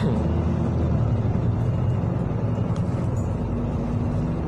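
City bus engine running steadily, heard from inside the passenger cabin as a low, even drone.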